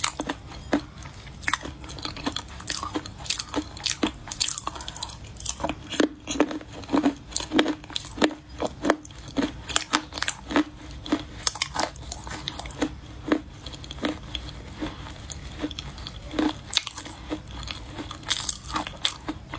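Close-miked biting and chewing of crunchy baked clay: a dense run of sharp crunches, several a second.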